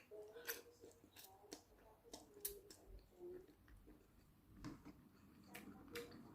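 Very faint eating sounds from someone chewing spicy instant noodles: a scattering of soft mouth clicks, with near silence between them.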